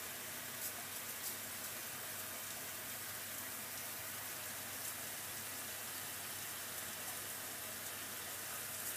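Hoover Logic washing machine running on its cotton 60 programme, a steady watery hiss.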